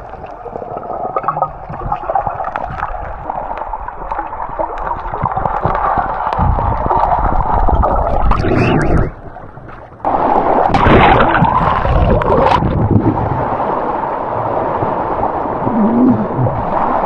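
Swift river water rushing and gurgling around a submerged camera, with bubbling. It drops away suddenly for about a second around nine seconds in, then comes back just as loud.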